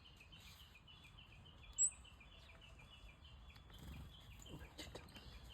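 Varied tit giving a single sharp, high chirp about two seconds in, over a faint, steady run of rapid repeated high chirping notes.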